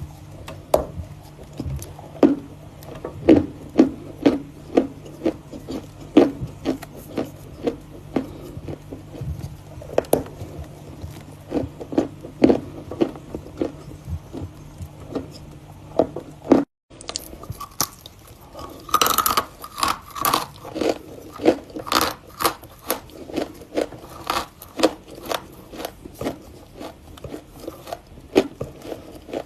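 Repeated close-up biting and crunchy chewing of Volokonovka chalk, one crisp crunch after another. There is a brief cut-out about two-thirds of the way through, and after it comes a denser flurry of crunching.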